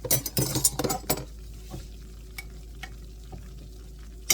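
Butter-and-flour roux sizzling steadily in a skillet, with a cluster of clattering knocks in the first second as glass jars are handled, then scattered small clicks and one sharp click near the end.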